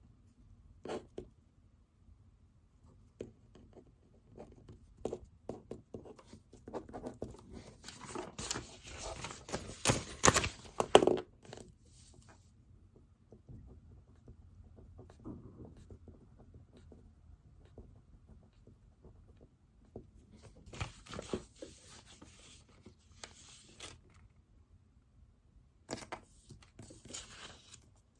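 Paper and pen handling at a study desk: scratching and rustling in bursts, the loudest run about eight to twelve seconds in, two shorter runs later, with light knocks between.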